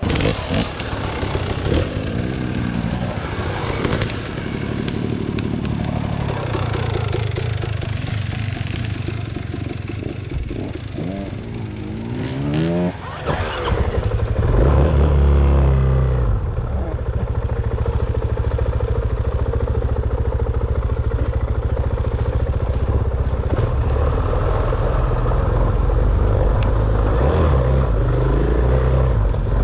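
Dirt bike engine being ridden, revving up and down repeatedly as the throttle opens and closes, then from about halfway through settling into a steadier, louder low running.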